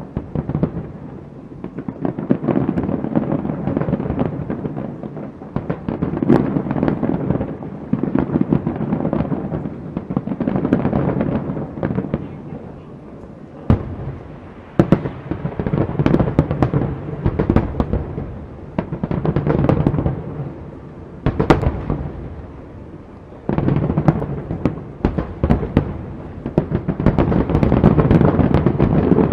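Aerial fireworks display: shells bursting in rapid succession, thick with crackle, coming in loud waves every few seconds with a few single sharp cracks in between.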